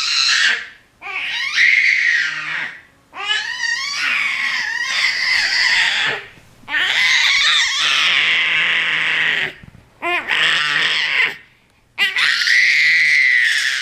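A 22-week-old baby screaming: a string of loud, high-pitched screams, each one to three seconds long with short breaks between. It is attention-seeking screaming rather than distressed crying, as the mother takes it.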